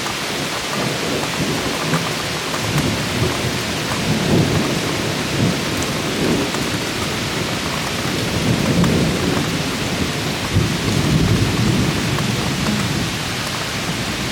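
Heavy cloudburst rain pouring steadily, with thunder rumbling low in several waves through it, strongest about four, nine and eleven seconds in.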